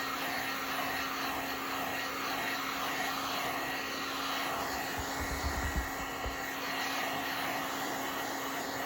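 Electric heat gun running steadily: an even rush of blown air with a constant motor hum, used to dry glue on armrest foam. A few faint low knocks about five to six seconds in.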